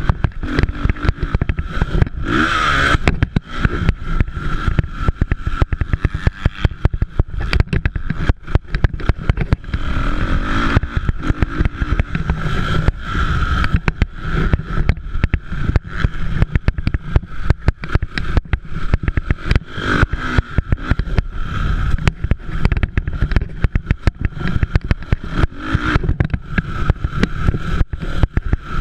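Motocross dirt bikes racing, engines revving and swelling as riders come past, over a dense crackling rumble.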